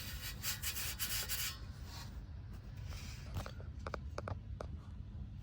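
Rubbing and scraping handling noise for about a second and a half, then a few light clicks a couple of seconds later, over a steady low rumble.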